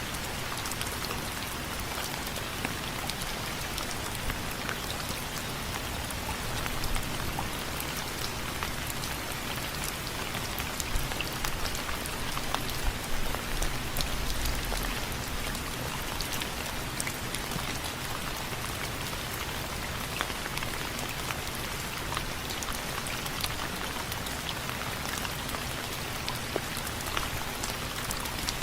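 Steady rain falling on window frames, with a constant hiss and many individual drops ticking sharply against it, a few louder ones near the middle.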